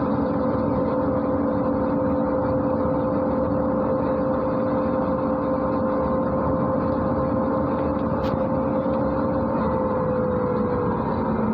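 MAZ-103 city bus under way, heard from inside: a steady engine and drivetrain hum with a whine that sinks slightly in pitch near the end. A single sharp click about eight seconds in.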